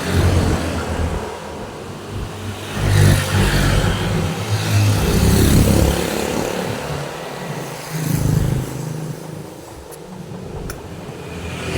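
Road traffic: several motor vehicles pass one after another, each engine swelling and fading as it goes by, loudest a few seconds in.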